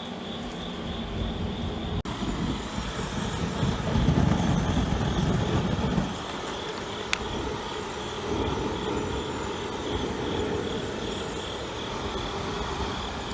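Gas flare burner burning with a steady rushing rumble and a constant high whine. The low rumble swells for about four seconds starting two seconds in, then settles, and a single sharp click sounds past the middle.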